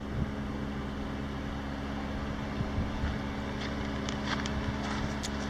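A steady engine-like hum with a low rumble and a few constant low tones, starting abruptly.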